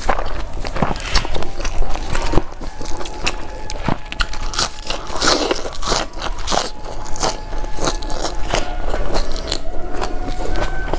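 Close-miked chewing and crunching of a mouthful of rice, fried chicken parts and fresh greens, with many irregular small clicks and wet mouth sounds.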